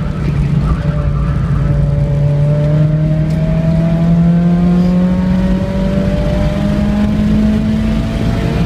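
Mazda Miata's four-cylinder engine under full-throttle acceleration out of a corner, its note rising steadily in pitch as the car gains speed.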